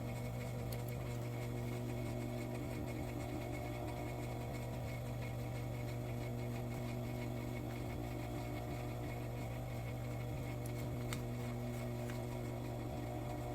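Industrial sewing machine motor running with a steady, even hum while a trouser dart is sewn.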